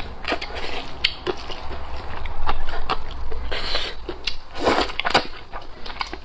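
Close-miked eating of rice noodles: wet chewing and mouth clicks, with a few louder smacking or slurping bursts in the middle.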